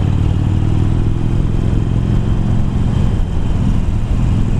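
Harley-Davidson Iron's air-cooled V-twin, fitted with the 1200 kit and Screamin' Eagle slip-on mufflers, running under way. The engine note rises slightly, then dips about three seconds in, over steady road noise.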